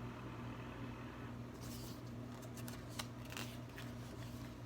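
Paper rustling and light clicks of a book's page being turned, starting about a second and a half in, over a steady low hum.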